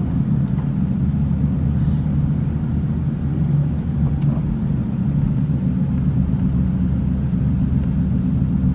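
Steady low rumble of a 1996 Ford Thunderbird driving along, heard from inside the cabin: its 4.6-litre V8 engine running under light load, mixed with road noise.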